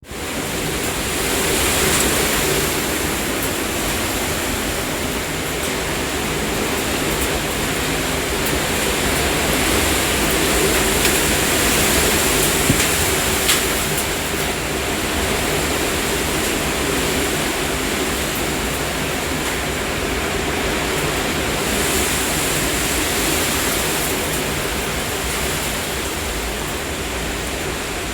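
Strong wind from an approaching dry thunderstorm, rushing steadily with slow swells and a low rumble of wind buffeting the microphone.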